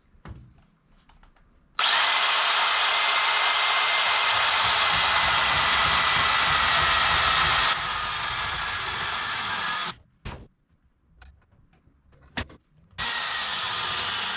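Portable bandsaw running as it cuts a bushing to length. It starts about two seconds in, steps down in loudness partway through, and stops after about ten seconds. A few light clicks follow, and the saw starts up again near the end.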